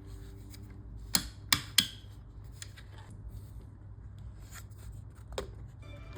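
Three sharp clicks in quick succession about a second in and a fainter one near the end, over light ticking and rustling: small hand-work sounds at a workbench.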